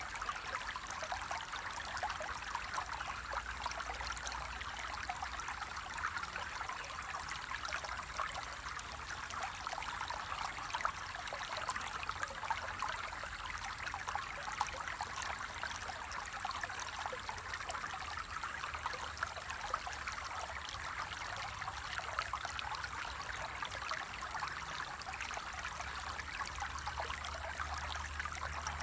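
Water flowing steadily over stones, a constant trickling and babbling with many small splashes.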